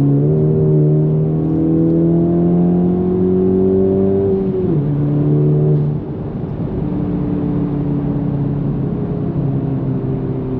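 Honda Civic Type R FL5's turbocharged 2.0-litre four-cylinder, breathing through an AWE Touring exhaust, pulls under acceleration with its pitch climbing steadily. About four and a half seconds in the pitch drops sharply at an upshift. About six seconds in it gets quieter and settles into a steady, lower cruise note.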